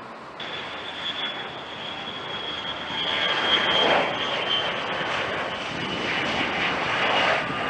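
Jet engine of the Boeing MQ-25 Stingray drone, a Rolls-Royce AE 3007N turbofan, running with a steady high whine over a broad rush of noise. It cuts in just after the start and grows louder about three seconds in.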